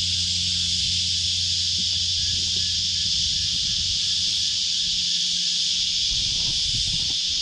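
A chorus of cicadas singing in the trees, a steady, high-pitched continuous buzz.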